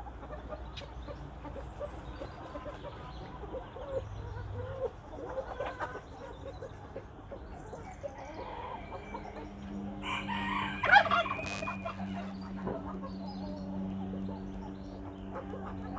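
Chickens clucking and calling at intervals, with one loud, longer call, a rooster crowing, about ten seconds in. A steady low hum comes in from about nine seconds on.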